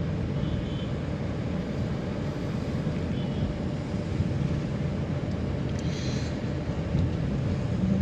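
Vehicle driving along a forest road: a steady low rumble of engine and tyres.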